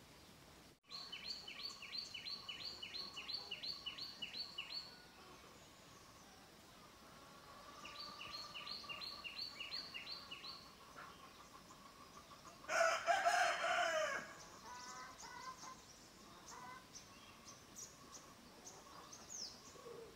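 Birdsong: a bird repeating short, high notes about three a second, in two runs. A rooster crows once between them, and this is the loudest sound.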